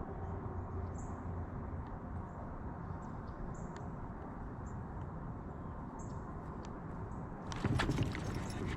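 Steady low water and wind noise around a kayak on a lake, with short high chirps dotted through. About seven and a half seconds in, a louder rushing splash of water sets in.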